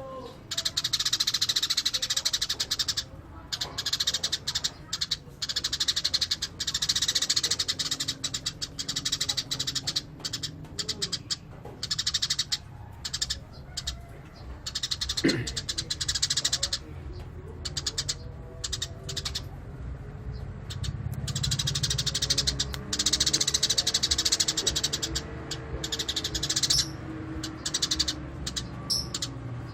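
Eurasian tree sparrows chirping in fast, continuous chattering runs, coming in bursts of a few seconds with short breaks between.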